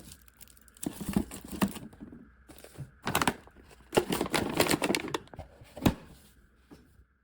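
Luggage being packed by hand: rustling and crinkling of bags and clothes with scattered clicks and knocks of items set down, the sharpest about three, four and six seconds in.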